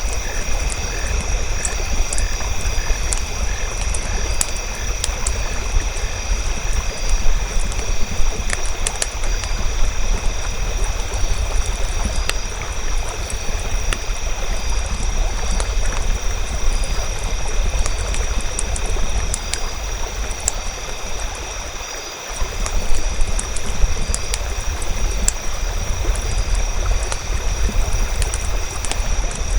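Nature ambience: a fire crackling with sharp scattered pops over a steady low rumble, with insects trilling steadily. A frog's pulsed calls fade out within the first few seconds, and the rumble briefly drops out about three quarters of the way through.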